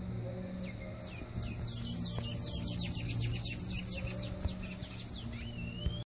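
A bird chirping: a fast run of high, down-slurred chirps that builds for a few seconds and then thins out, followed by one rising whistle near the end.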